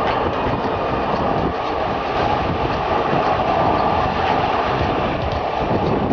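Flybe Dash 8 turboprop's engines and propellers running, a loud, steady drone.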